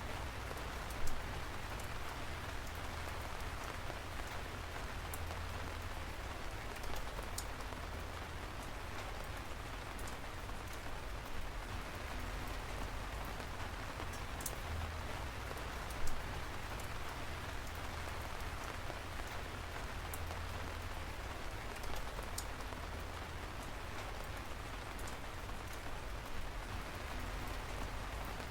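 Steady rain falling on a surface, with scattered sharp drops, two louder ones about a second in and about halfway through.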